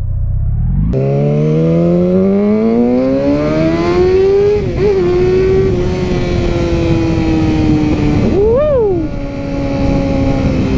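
Sport motorcycle engine accelerating hard, its pitch climbing steadily for a few seconds. It shifts up and runs at a steady cruise, with a brief rev up and back down near the end. Wind rush is heavy on the helmet microphone.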